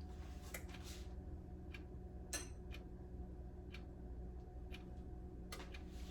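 Scattered light clicks and taps, about eight of them and irregularly spaced, one sharper about two seconds in, as the slow cooker is handled and set to low. A low steady hum sits underneath.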